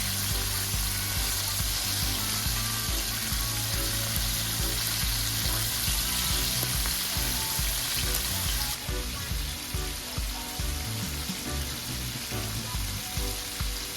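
Chicken pieces deep-frying in hot oil, a steady sizzle that turns a little duller about nine seconds in, under background music with a steady beat.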